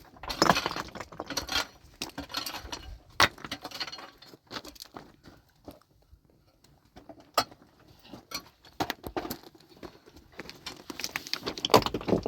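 Irregular knocks and clinks of hard objects striking one another, coming in uneven clusters, with a quieter stretch around the middle and a busier run near the end.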